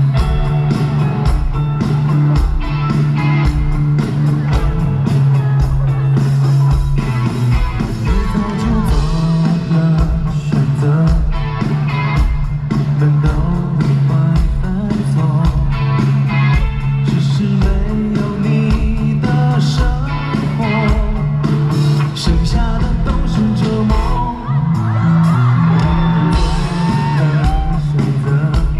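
Live rock-style band music over a loud PA, with a steady kick-drum beat, guitar and bass under a singing voice, and occasional yells from the crowd.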